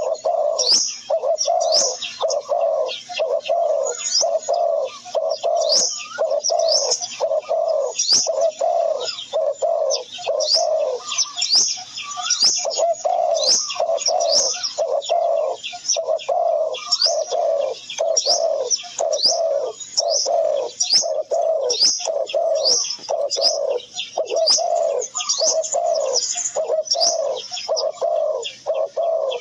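Doves cooing in a steady run of short low calls, more than one a second with a brief pause near the middle, while small birds chirp in quick, high, falling notes over them.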